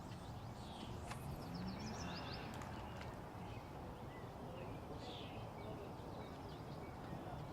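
Small birds chirping in quick high note-series a few times, over a steady low outdoor background noise.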